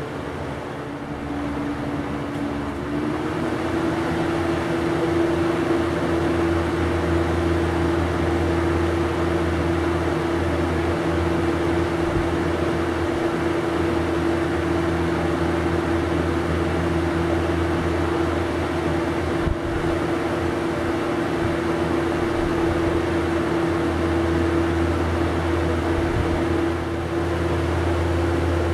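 Lakewood 200/i 20-inch box fan running, a steady motor hum with the rush of air. About three seconds in the hum steps up in pitch and grows louder as the fan picks up speed, then holds steady.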